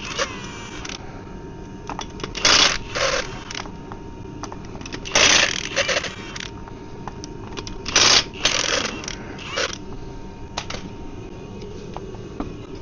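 Metal hand tools clattering in short bursts, about half a dozen times, with a brief metallic ring after the first, as sockets and spanners are picked up and handled.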